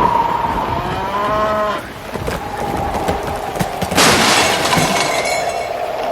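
A cow mooing over a steady hum, then a sudden loud crash about four seconds in.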